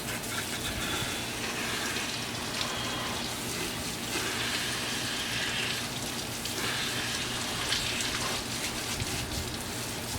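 Water spraying onto a pitbike to rinse salt and grime off it. The hiss of the spray rises and falls as it moves over the bike.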